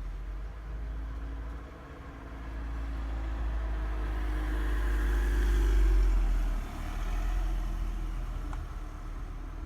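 A motor vehicle passing, with a low rumble that swells to its loudest about six seconds in and then eases off.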